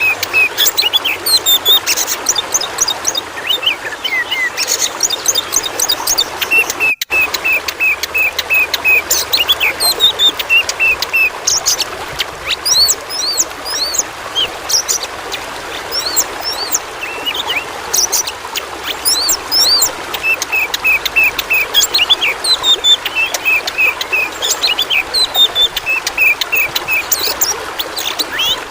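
Oriental magpie-robin (kacer) singing: a varied stream of loud whistles and quick runs of repeated notes, over a steady rush of running water. The sound drops out for an instant about seven seconds in.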